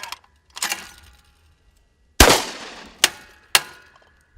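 Three gunshots: a loud one about two seconds in with a long echoing tail, then two sharper, shorter shots about half a second apart.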